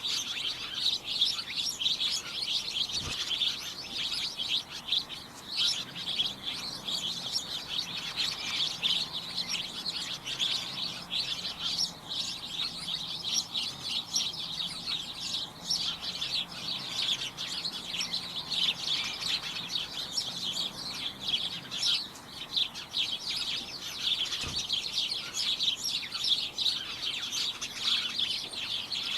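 A group of wild birds chirping all at once, a constant jumble of many overlapping short, high chirps with no pause.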